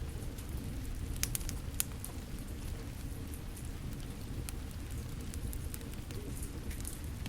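Rain falling steadily together with a crackling fire: a constant low rushing, with scattered sharp pops and crackles, a quick cluster of them about a second and a half in.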